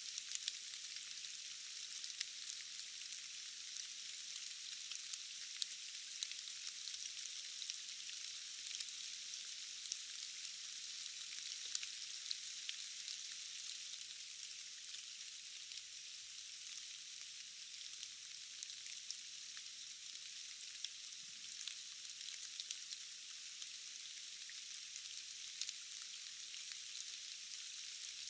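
Steady rain: an even hiss made of countless small drop ticks, thin and high-pitched with no low end.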